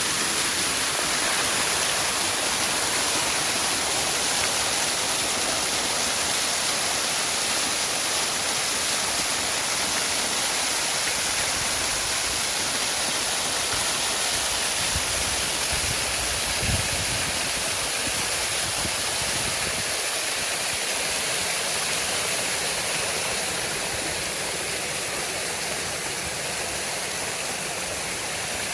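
Waterfall: a steady rush of falling water, with a few brief low bumps about halfway through.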